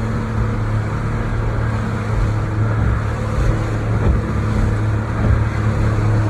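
Motorboat engine running steadily with a low, even hum.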